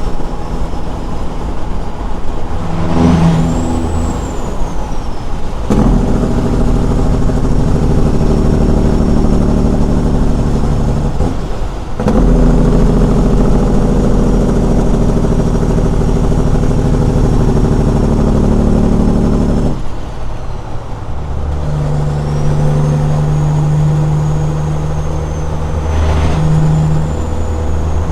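Caterpillar 6NZ inline-six diesel in a straight-piped Peterbilt 379, running loud under load. The engine note drops away briefly three times, about six, twelve and twenty seconds in, as the truck works through the gears. A high whine rises and falls twice, near the start and near the end.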